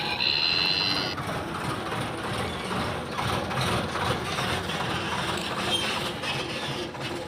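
Truck running with a steady rough mechanical rattle. A high steady tone over it stops about a second in.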